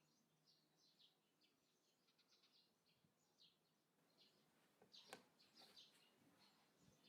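Faint outdoor birdsong: small birds chirping in quick repeated short calls, with one brief sharp rustle about five seconds in.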